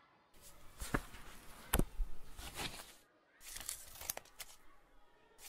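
Paper rustling as the pages of a large register are turned and leafed through, in two spells, with two sharp knocks in the first spell, about a second and just under two seconds in.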